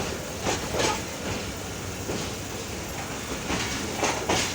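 Train running on the rails, a steady rumble with wheels clacking over rail joints several times.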